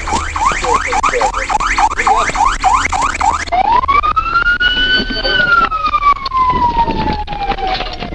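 Police siren, first in a fast yelp of about four rising sweeps a second, then switching about three and a half seconds in to a slow wail that rises and then falls away.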